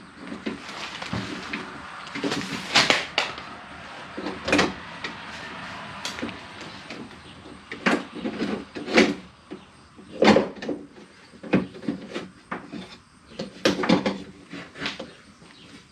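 Irregular metal knocks, clanks and scrapes as a power window regulator and motor assembly is worked into the sheet-metal cavity of a pickup's door, a dozen or so sharp knocks over a rustling scrape.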